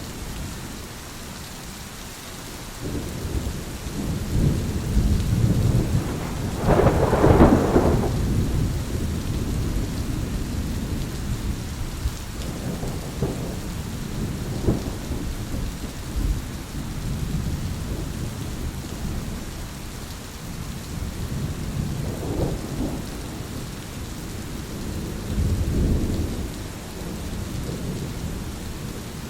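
Thunderstorm with steady rain and rolling thunder; the loudest peal, a sharper crack, comes about seven seconds in, with lesser rumbles later.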